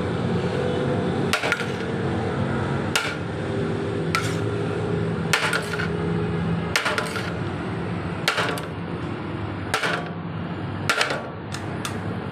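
Repeated sharp knocks of a utensil against a cooking pot, about one every second or so and sometimes in quick pairs, over a steady low hum.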